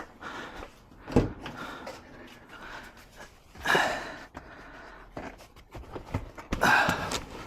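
Car rear seat being tugged and worked loose while it snags on a mounting hook: a sharp knock about a second in, then two louder scraping, rustling bursts.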